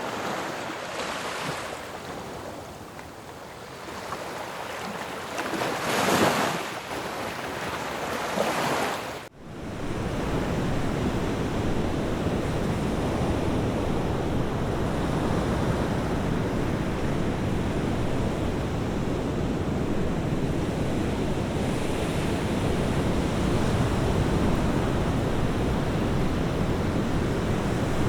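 Sea waves breaking and washing onto a shore, with surges about a second in and about six seconds in. About nine seconds in the sound drops out for an instant, then gives way to a steadier, denser rush of surf with more low rumble.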